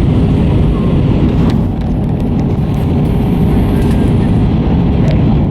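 Steady loud cabin noise of an Airbus A320 as heard inside the passenger cabin: the continuous roar of the engines and airflow, deep and even, with a faint steady hum running through it.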